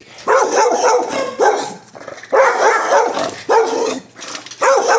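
Shelter dog barking in quick runs of several barks, a new run about once a second.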